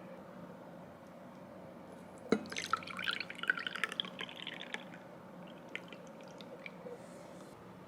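A knock of a glass or cup, then liquid poured into a glass for about two and a half seconds with a crackling, splashing patter, and a few light clicks afterwards.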